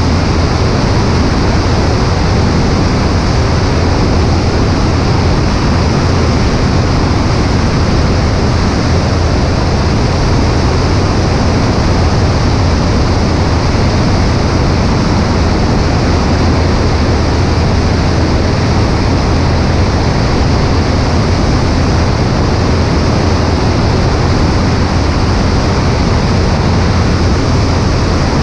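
Cessna 140A in steady flight: its flat-four engine and propeller drone at a constant pitch under a heavy rush of wind on a wing-mounted microphone.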